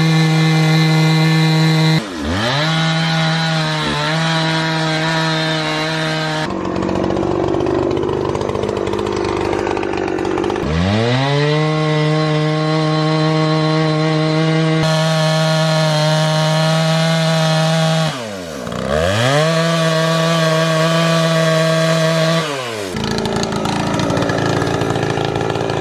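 A power saw running flat out, its pitch sagging several times as it bites into the work. It cuts with a gritty rasp for a few seconds, then climbs back to full speed.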